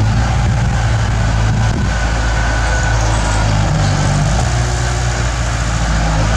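Bulldozer's diesel engine running steadily, a loud low engine note that holds throughout.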